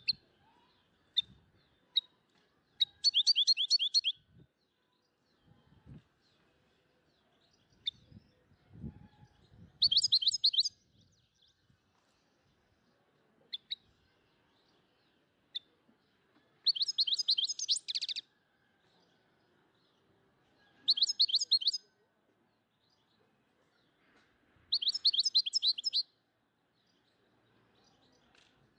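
A small songbird singing in five bursts of rapid high trills, each about a second long and a few seconds apart, with single short chirps in between.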